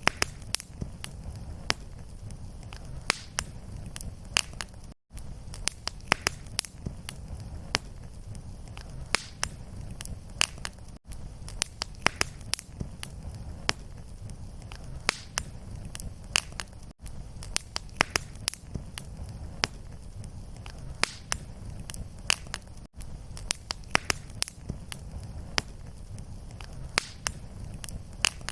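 Wood fire crackling: a steady low rumble of flames with frequent sharp pops and snaps. The sound drops out briefly about every six seconds where a short looped recording restarts.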